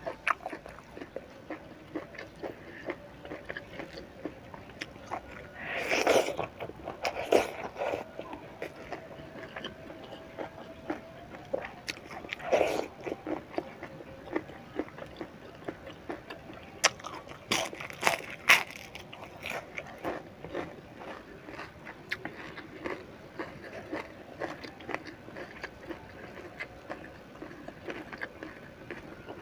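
Close-mic mouth sounds of someone biting and chewing crispy fried sepat fish: a run of small crunches and mouth clicks, broken by a few louder crunches scattered through.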